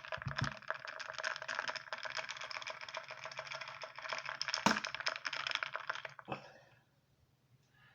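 A thick orange-mango and banana smoothie being sucked up, a dense rapid crackling of bubbles and clicks that stops about six seconds in. There is a sharper click a little before that.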